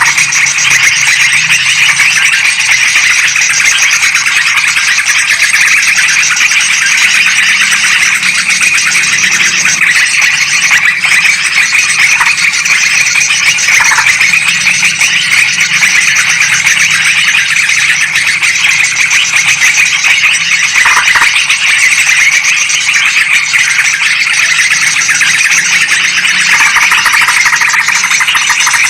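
Yellow-vented bulbuls and sooty-headed bulbuls calling noisily, a loud, dense, unbroken chorus of high chattering notes with no pauses.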